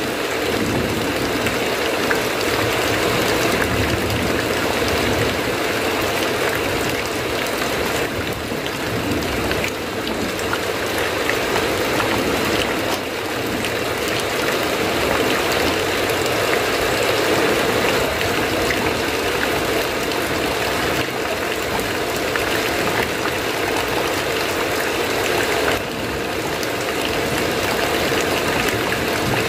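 Heavy rain falling steadily on a roof: a dense, even hiss with a low rushing layer underneath.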